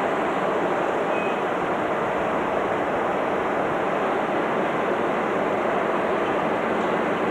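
Steady rushing noise of a train in motion, even and unbroken, with no distinct rail-joint clicks.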